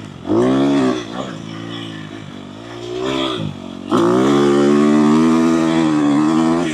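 Dirt bike engine under riding throttle: a quick rev-up and drop, lower running, another brief rise and fall, then about four seconds in it picks up sharply and runs hard and steady at high revs.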